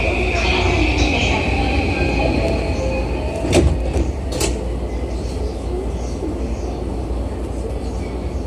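JR East E235 series electric train running, heard from inside the leading car: a steady rumble of wheels on rail with a faint whine rising in pitch over the first few seconds. Two sharp clacks about a second apart come near the middle.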